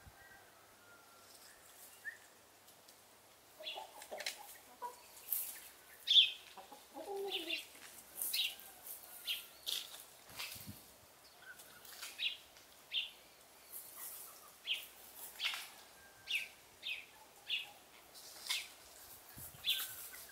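A small bird chirping over and over, short high chirps coming roughly one a second from about three seconds in. A hen clucks a few times in the middle.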